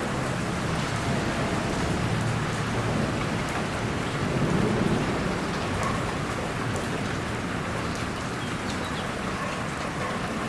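Steady rain falling, with a low rumble of distant thunder swelling about halfway through.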